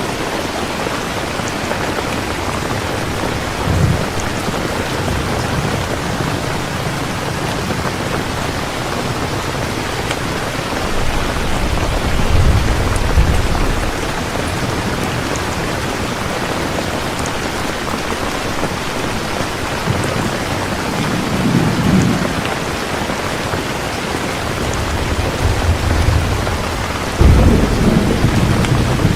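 Steady heavy rain hissing, with low thunder rumbling several times. The rumbles swell and fade over a few seconds each, and the loudest begins suddenly near the end.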